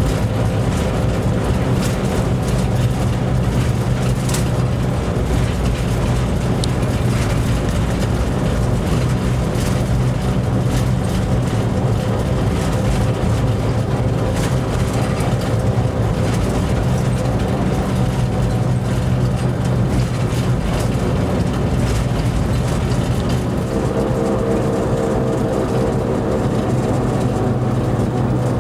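Railway locomotive heard from inside its cab while running: a steady low engine drone with scattered clicks of the wheels over the track. Near the end a higher hum joins in.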